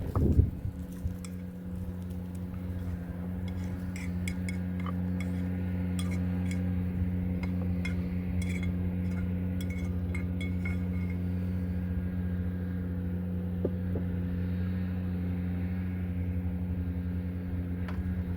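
Light clinks of an eating utensil against dishes, frequent in the first half and sparse later, over a steady low mechanical hum.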